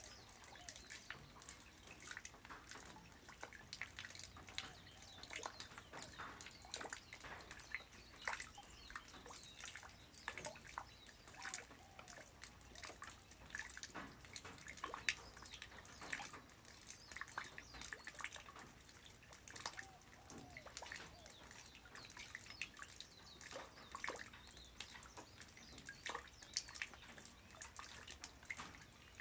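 Light rain falling on the ground: a soft steady hiss dotted with many separate drop impacts and drips.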